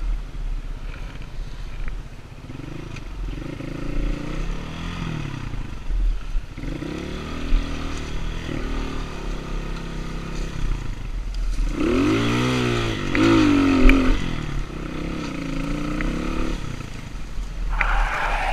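Enduro dirt bike engine being ridden, its pitch rising and falling over and over as the rider works the throttle, with the hardest revs about twelve to fourteen seconds in.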